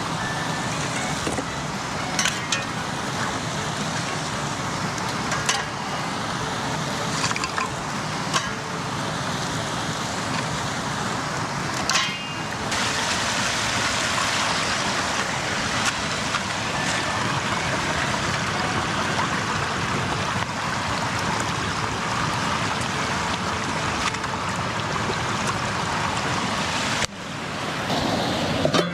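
River water flowing steadily, with a few short knocks and clicks scattered over it and a brief drop-out near the end.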